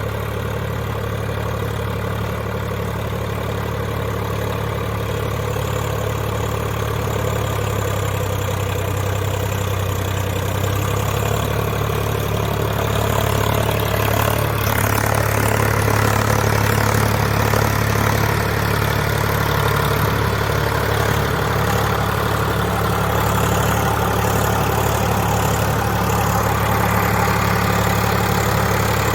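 Swaraj 744 FE tractor's three-cylinder diesel engine running steadily under load while pulling through mud, getting a little louder about halfway through.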